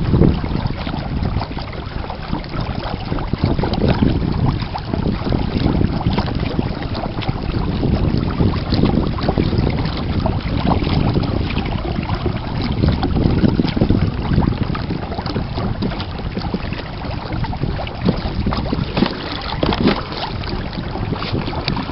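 Wind buffeting the microphone on a kayak out on the water, a continuous low rumble that swells and eases in gusts.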